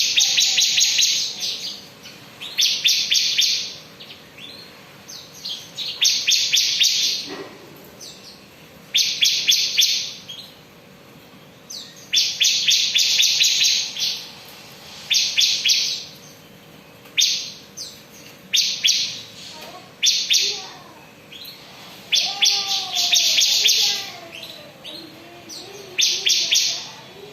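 Bar-winged prinia (ciblek) singing its loud ngebren song: about eleven bursts of rapid, high, buzzy trilling, each one to two seconds long, with short pauses between.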